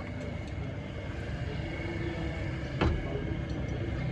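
Steady low mechanical rumble, with one sharp knock about three quarters of the way in.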